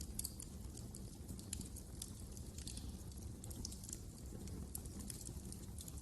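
Wood fire crackling: irregular sharp snaps and pops over a low, steady rumble of the burning fire.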